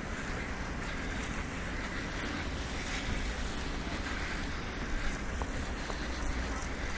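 Blizzard wind rushing steadily and buffeting the microphone, with a heavy low rumble.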